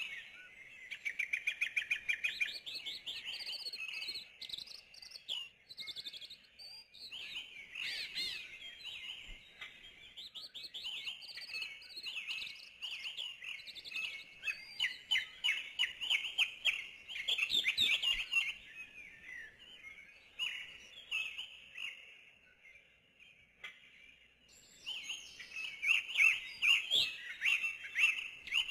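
Small birds chirping and singing in a busy chorus of quick repeated notes and trills, thinning out to a lull past the middle before picking up again near the end.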